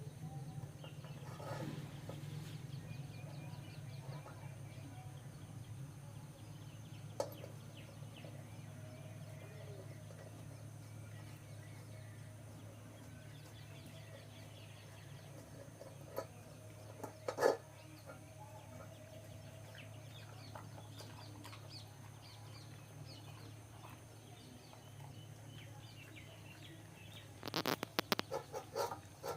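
Chickens clucking and small birds chirping faintly over a steady low hum, with a few sharp clicks and a quick run of knocks near the end.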